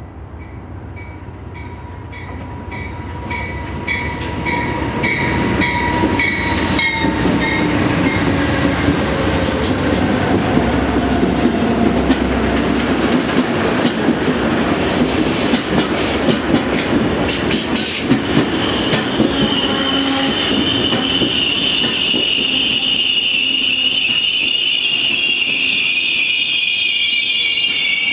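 Amtrak passenger train approaching and passing, growing louder over the first several seconds. Dense wheel-on-rail clatter runs through the middle, and a steady high-pitched wheel squeal sets in about two-thirds of the way through.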